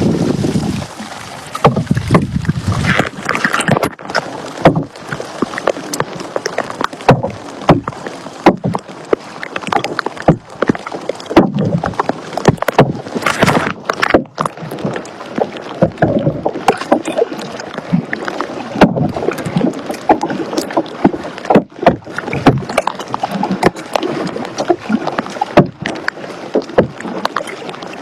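Kayak paddling: a run of irregular paddle splashes and sharp knocks, about one or two a second, over a steady swish of water.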